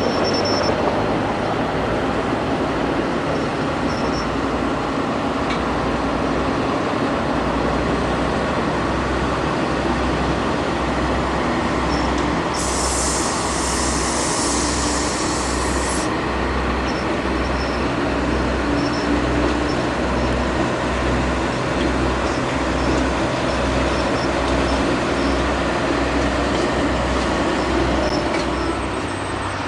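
Train running on the rails: a steady rumble with a regular low beat. A high hiss lasts about three seconds around the middle.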